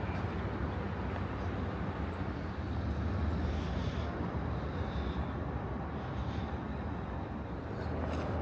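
Steady low rumble of city ambience, distant traffic and engines, with a faint high whine passing briefly in the middle.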